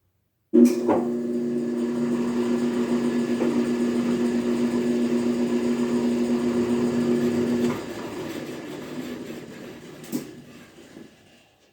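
Electric motor driving a planer through a belt, switched on with a click and running with a steady hum for about seven seconds, then switched off and winding down as the machine coasts to a stop, with a single click near the end. This is one powered pass of the work past the cutter.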